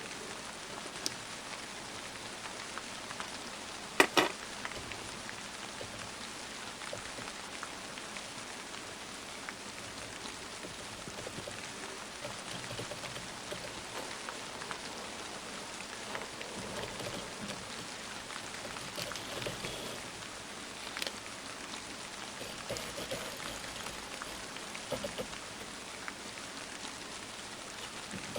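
Steady rain, an even hiss with patter, with a few light clicks and taps scattered through and one sharp click about four seconds in.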